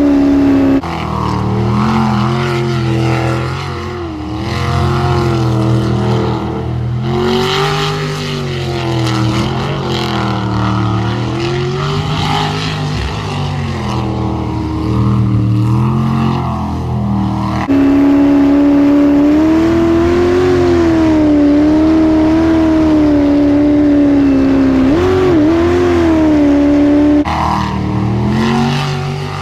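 Unlimited V8 jet sprint boat engine running hard, its pitch rising and falling again and again as it accelerates and backs off. The sound changes abruptly a few times.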